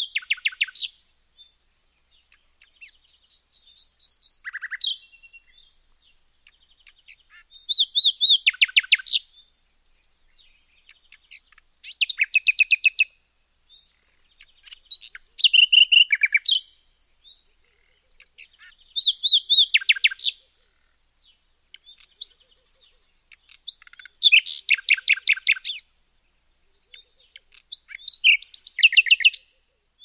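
A bird singing: short phrases of rapid, quickly repeated notes, each lasting one to two seconds, given about every four seconds with brief pauses between them.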